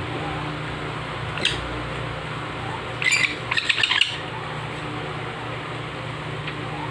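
A baby parrot gives a quick burst of rapid squawking chirps about three seconds in, over a steady background hum, with a single click a little earlier.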